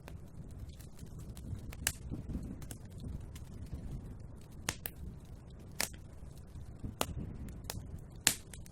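Wood fire in a fireplace crackling: a steady low rumble of the flames with sharp pops every second or so, the loudest one near the end.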